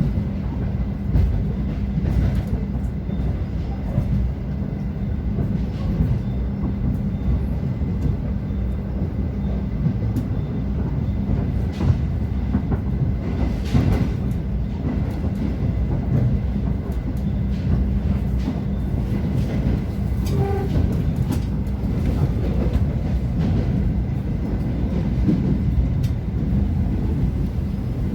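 Passenger train running along the line: a steady low rumble of the wheels and carriages, with scattered clicks and knocks from the running gear over the track.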